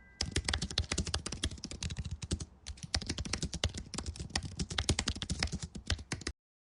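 Rapid typing on a computer keyboard: a steady stream of key clicks that cuts off abruptly near the end.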